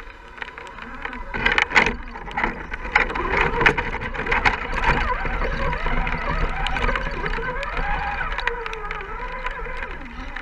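Radio-controlled rock crawler's electric motor and geartrain whining, the pitch rising and falling with the throttle, with scattered clicks and knocks, densest about a second and a half in.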